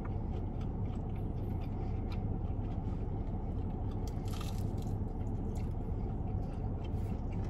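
Chewing and biting of fried chicken: small wet mouth clicks and a short crunchy burst about four seconds in, over a steady low hum inside a car.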